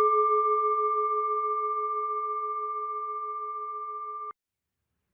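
A singing bowl ringing after a single strike, a clear tone with higher overtones, slowly fading with a gentle waver, then cut off abruptly a little over four seconds in, followed by silence.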